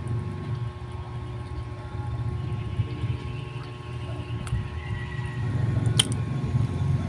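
Close-miked chewing of bread, soft and irregular, with a couple of sharp little clicks near the end.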